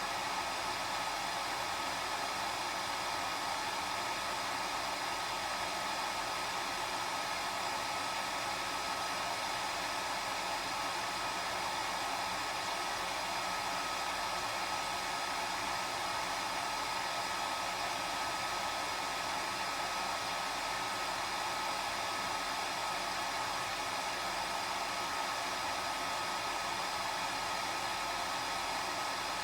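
Hair dryer blowing steadily: an even rushing of air from the fan with a steady whine on top, unchanging throughout.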